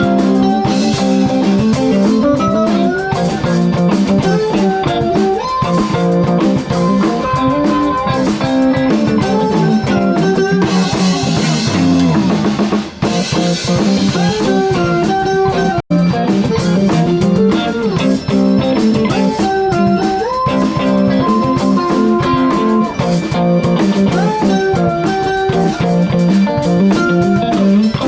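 Live rock band playing an instrumental passage with guitars and a drum kit, with no singing. The sound drops out for a split second a little past halfway.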